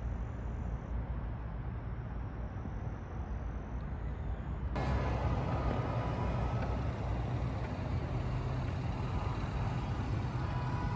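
City street traffic noise: a steady rumble of passing vehicles, which turns abruptly fuller and a little louder about five seconds in.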